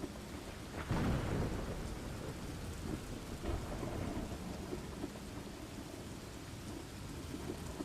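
Steady rain falling, with a rumble of thunder about a second in and a weaker one a few seconds later.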